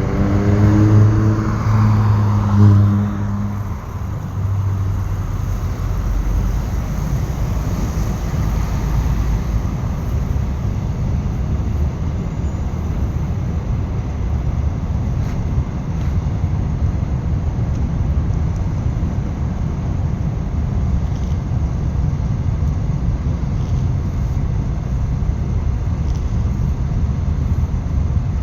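Freight train behind a VL10U electric locomotive rolling past: a steady low rumble of wagons on the rails, with faint light ticks. A humming tone fades out in the first few seconds.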